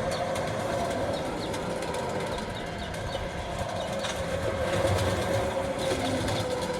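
Ambient soundscape of a light-and-sound art installation: a steady low drone with a held tone, with faint short high chirps scattered through it.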